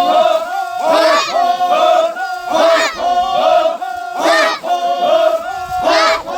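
A group of voices chanting: a steady held note with rhythmic rising-and-falling cries about every one and a half seconds.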